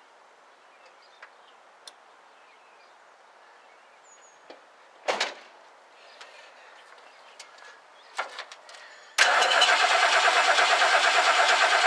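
Starter motor cranking the 1969 Lincoln Mark III's V8 for about three and a half seconds near the end, steady and without the engine catching: no spark is reaching the plugs, which the owner puts down to the ignition points. Before it, a few clicks and knocks.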